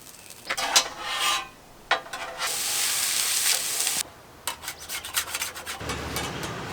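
Food being cooked on a hot surface: a utensil scraping and stirring, with a couple of seconds of loud sizzling in the middle, then a few sharp clicks and taps.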